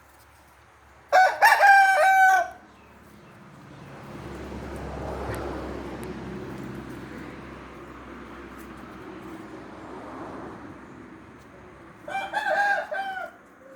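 Rooster crowing twice, about ten seconds apart, with a rushing noise that swells and fades between the two crows.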